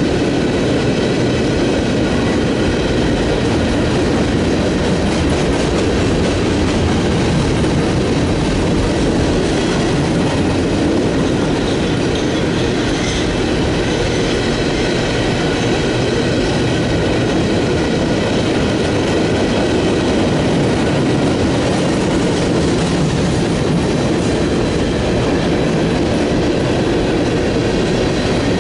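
A train passing close by: its wheels run on the rails in a steady, loud rumble that holds at one level.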